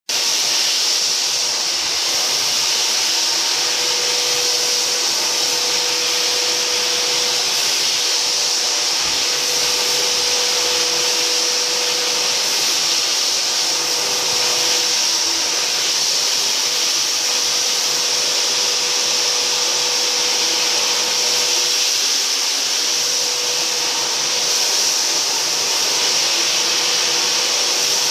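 Floor sanding machine with a dust-collection vacuum attached, running continuously at a steady, even pitch with a faint underlying hum.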